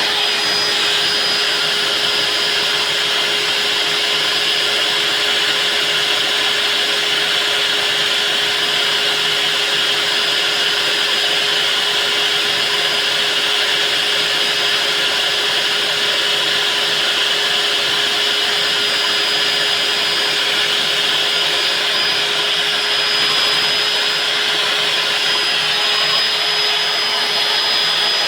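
Electric diamond core drill running steadily while cutting into reinforced concrete, its motor giving an even high whine over a lower hum with a constant hiss of grinding.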